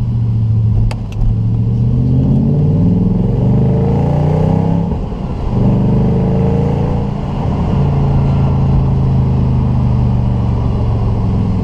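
Audi RS4 B7's 4.2-litre V8 running through its rear exhausts, which have a bypass fitted. It pulls up in revs, drops back briefly about five seconds in as with a gear change, climbs again and then holds a steady run. Two short clicks come about a second in.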